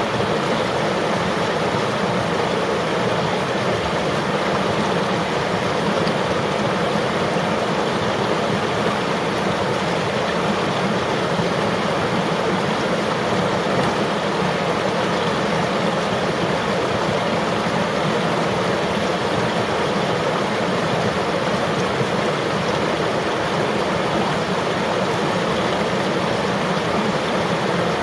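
River water flowing steadily over rocks, a constant rushing with no breaks or distinct splashes.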